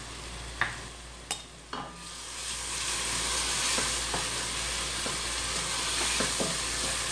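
Chopped onion, garlic-ginger paste and green chilli sizzling in hot oil in a stainless steel pot, stirred with a wooden spoon. There are a few sharp taps in the first two seconds; then the sizzle grows louder and holds steady, with light scrapes of the spoon.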